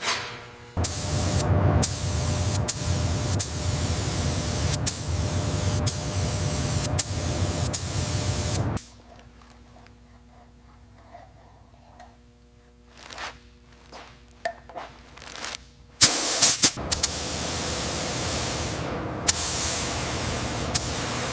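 Compressed-air spray gun hissing as paint is sprayed on: one long burst of about eight seconds, a quieter gap with a few faint knocks, then spraying again from about two-thirds of the way through.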